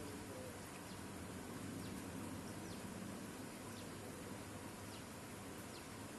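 Faint outdoor evening ambience: a steady hiss of background noise, with a bird repeating a short, high, falling call about once a second.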